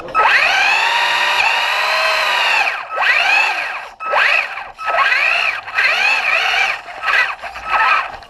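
Electric motor of a Traxxas RC truck whining as the throttle is worked, the pitch rising and falling: one long run of almost three seconds, then several short bursts. A short steady tone sounds in some of the gaps between bursts.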